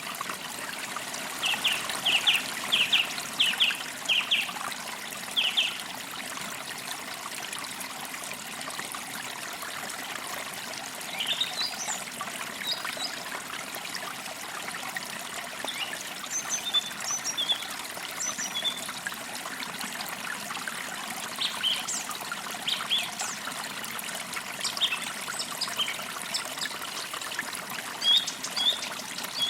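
Shallow forest creek trickling steadily over stones, with small birds chirping: a quick run of repeated chirps in the first few seconds, then scattered high calls through the rest.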